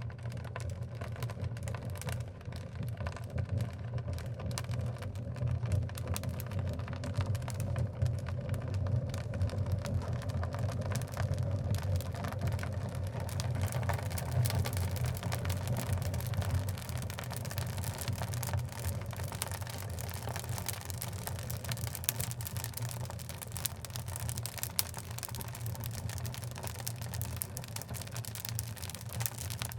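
Oak logs burning in a wood-burning fireplace: a steady low rumble of flame with a continual scatter of sharp crackles and pops, growing busier about halfway through.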